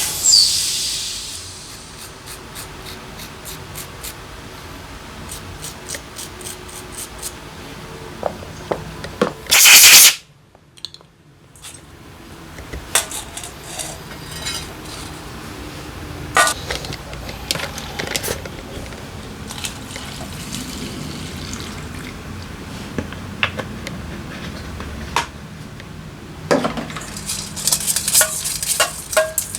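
Small metal parts clinking and clicking as they are handled, with one loud hiss of spray lasting about half a second about ten seconds in, and a quicker run of clicks near the end.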